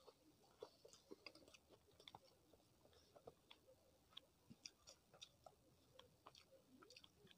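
Faint close-miked chewing of a mouthful of rice and curry: soft, irregular wet mouth clicks and smacks, several a second.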